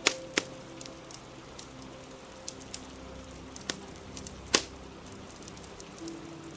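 Fire crackling: scattered sharp pops and ticks, the loudest just at the start and about four and a half seconds in, over a steady hiss of rain.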